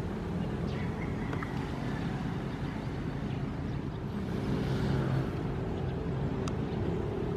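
Ocean waves as a steady low rumble of surf, with one wave swelling and washing in about four to five seconds in.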